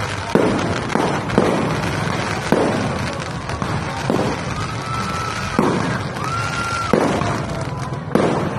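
Aerial fireworks going off: sharp bangs about once a second over a steady crackle, with two held whistles in the middle.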